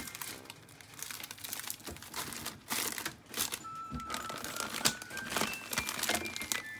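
Plastic packaging crinkling and rustling in irregular handfuls as it is handled, under light background music.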